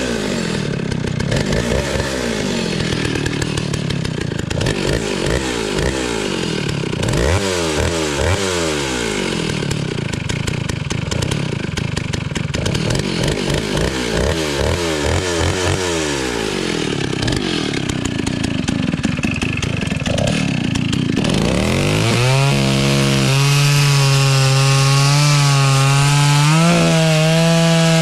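Stihl S-10 56cc two-stroke chainsaw running, revved up and down over and over. For the last several seconds it is held at a steady high pitch.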